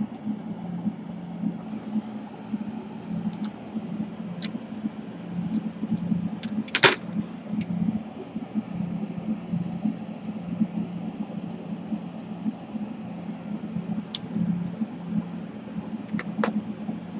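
A steady fan hum, with scattered small clicks and one sharper click about seven seconds in.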